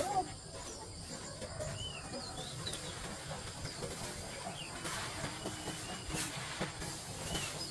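Birds giving short high chirps now and then over a steady outdoor hiss.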